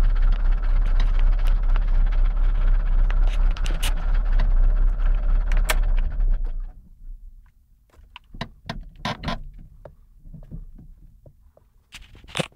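Fiat Cinquecento 700's two-cylinder engine idling with irregular knocks from the engine, then stopping about six and a half seconds in. After it stops come scattered small clicks and rattles, and one sharp click near the end.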